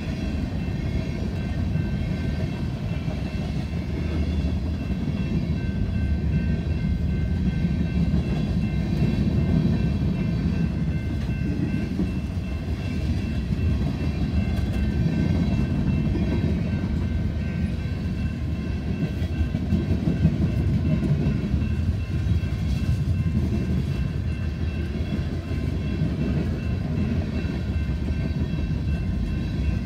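Freight cars of a mixed freight train (tank cars and covered hoppers) rolling steadily past at speed: a continuous rumble of wheels on the rails. Faint steady high tones sit above it throughout.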